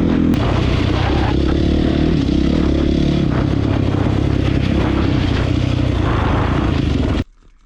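Honda CRF450's single-cylinder four-stroke engine running loud through an HGS aftermarket exhaust, steady for several seconds, then cutting off abruptly near the end.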